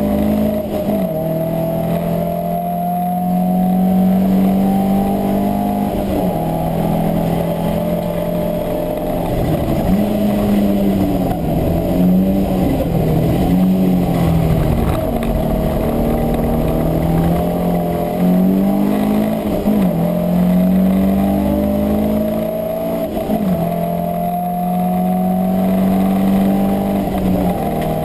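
A classic saloon race car's engine, heard from inside the cockpit at full racing load. The revs climb steadily, then drop and climb again several times as the driver changes gear or lifts.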